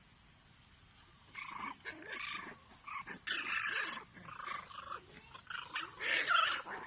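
Pet animals vocalising in a run of short, irregular calls, starting about a second and a half in.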